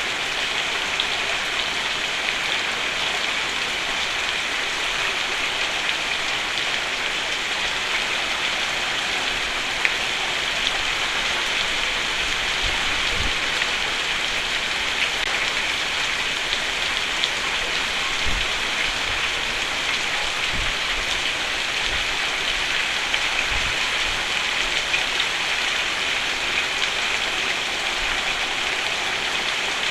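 Steady heavy rain falling on a roof, an even hiss of drops, with a few brief low thumps in the second half.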